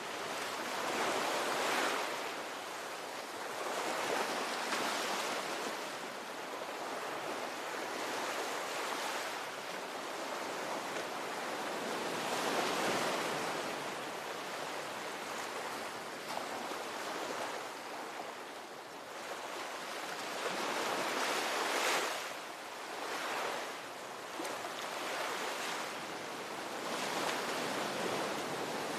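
Ocean waves breaking and washing onto shore, a steady rush of surf that swells every few seconds as each wave comes in.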